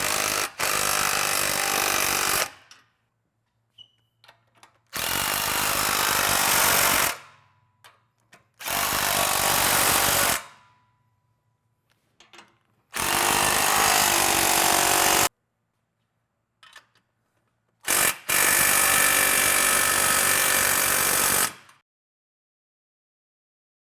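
Power tool run in five bursts of about two to three seconds each, with short clicks between them.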